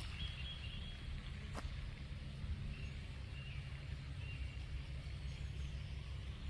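A few faint short bird chirps over a steady low rumble, with a single sharp click about a second and a half in.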